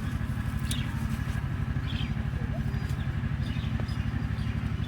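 A steady low motor-like drone with a fine, even pulse, over which a small bird chirps repeatedly in short notes.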